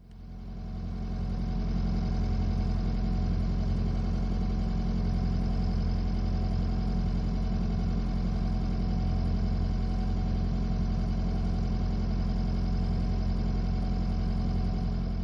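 Motorsailer's diesel engine running steadily under way, a constant low hum with a deep drone.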